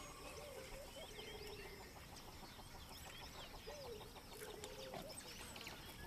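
Faint bush ambience of wild birds calling: several low, arching calls and many short, high chirps scattered throughout.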